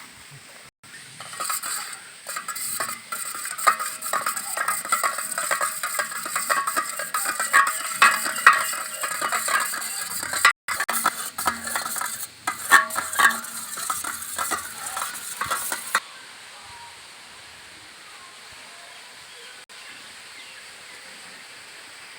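Chicken pieces frying in hot oil, sizzling and crackling densely, with a utensil stirring and clinking among them. The sound stops abruptly about sixteen seconds in, leaving a faint steady background.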